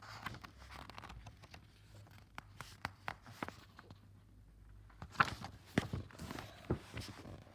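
Irregular light clicks, taps and rustling of paper being handled: a picture book's page being turned, with a few sharper knocks about five to six seconds in.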